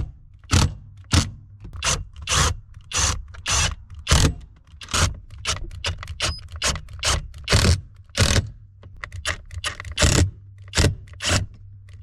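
A hand tool worked back and forth in steady scraping strokes, a little under two a second, with a low steady hum underneath. It fits a ratchet spanner tightening the mounting bolts of a short shifter base.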